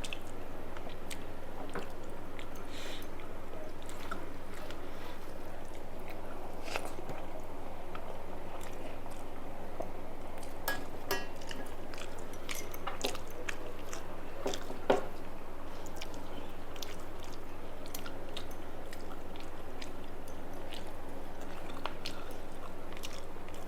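Close-up chewing and biting of a mouthful of rice and fried food, with scattered small crunches and clicks over a steady low hum. One sharper, louder click about 15 seconds in.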